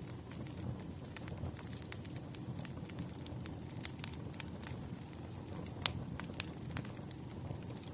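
Wood fire crackling: a steady low rumble of burning firewood with frequent irregular pops and snaps, the loudest pop about six seconds in.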